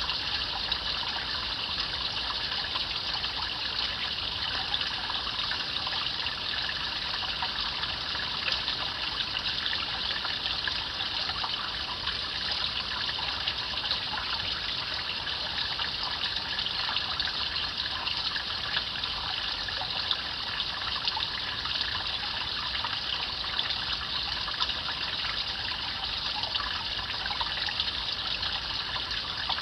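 A shallow stream babbling steadily, its water trickling and splashing over stones in a constant bright rush.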